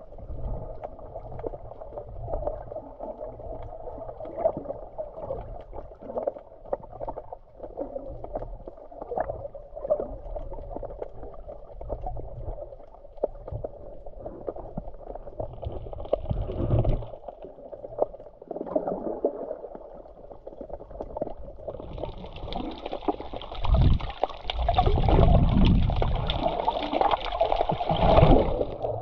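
Sea water sloshing and gurgling, muffled, with uneven low rumbling bumps. From about two-thirds of the way in, a louder hissing wash of water joins and runs until just before the end.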